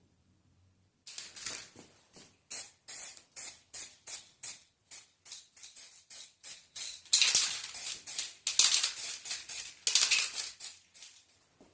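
Rapid back-and-forth abrasive strokes by hand, about three a second, as a part is scrubbed or sanded. They start about a second in and grow louder in the second half.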